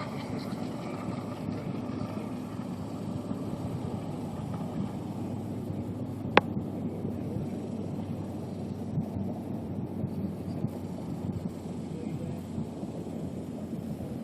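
Wind buffeting an outdoor microphone in a steady rumble. The high whine of an RC boat's electric motor dies away in the first second, and one sharp click comes about six seconds in.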